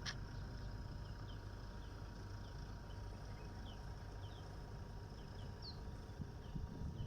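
Small birds calling: short, high chirps repeated irregularly, about twice a second, over a steady outdoor background with a few soft thumps near the end.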